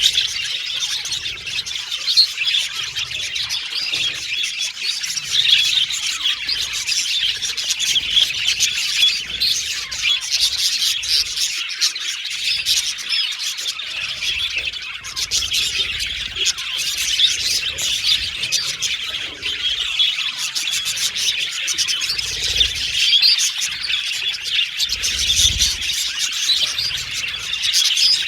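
Budgies (budgerigars) chirping and warbling continuously in a dense, overlapping chatter of high trills and squawks. A couple of low thuds come in near the end.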